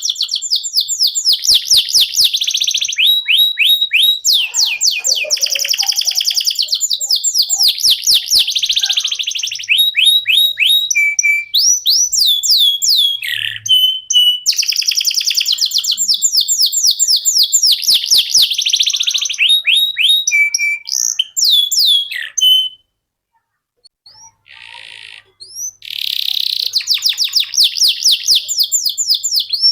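Male canary singing a long, fast, high-pitched song of rapid trills and rows of repeated downward-sweeping notes. The song breaks off for about three seconds near the end, then starts again.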